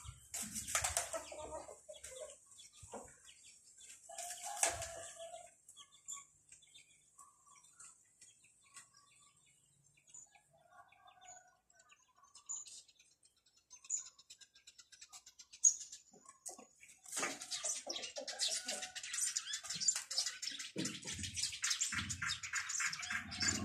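Small birds chirping: a few scattered short high chirps, then, about two-thirds of the way through, a dense, rapid run of chirping.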